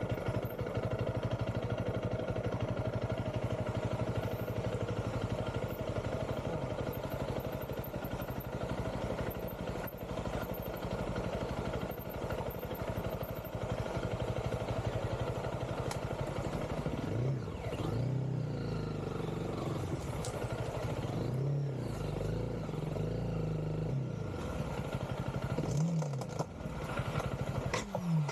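Honda CRF300L's single-cylinder four-stroke engine running as the dirt bike is ridden along a rough, muddy track. It holds a steady pace at first, then from about two-thirds of the way through the revs rise and fall repeatedly, with a sharp rev near the end.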